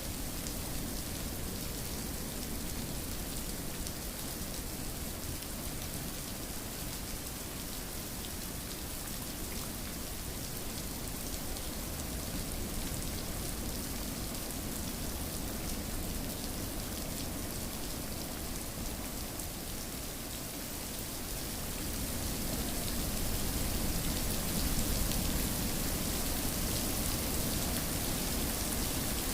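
Steady rainfall, a dense patter of drops on a surface, swelling a little louder about three quarters of the way through.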